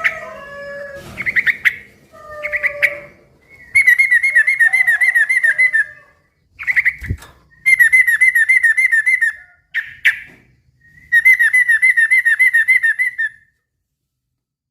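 Yellow-vented bulbul (trucukan) chattering loudly: three long bouts of fast, repeated bubbling notes, about six a second, with shorter calls between them, ending about 13 seconds in.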